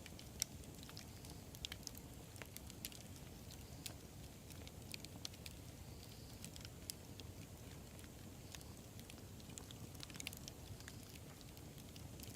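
Wood fire burning: a low steady rumble with irregular sharp crackles and pops, a quick cluster of them near the end.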